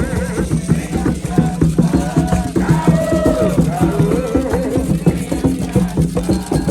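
A group singing a ritual chant to a steady beat of drums and shaken rattles.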